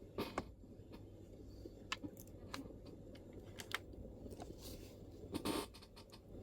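Scattered, unhurried MacBook keystrokes, single clicks a fraction of a second to a second apart, with a brief louder scuffing cluster about five and a half seconds in. A steady low room hum runs underneath.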